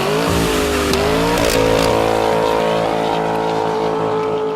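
A high-performance car engine revving up over the first second and a half, then held steady at high revs.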